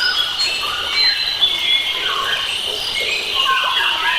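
Forest birds singing together, many short whistled notes and chirps overlapping, over a steady high insect drone.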